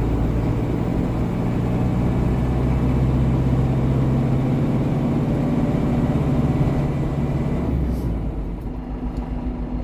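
GAZon Next truck's diesel engine running steadily while driving. About eight seconds in, the engine note drops away and gets a little quieter, as when easing off the throttle.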